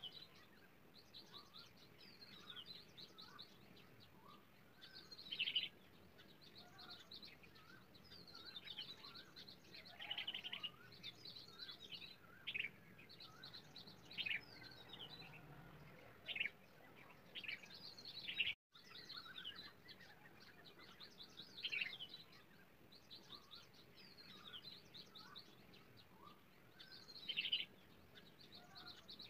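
Birdsong: small birds chirping and trilling in quick runs of short, high notes, faint throughout, cutting out for an instant about two-thirds of the way through.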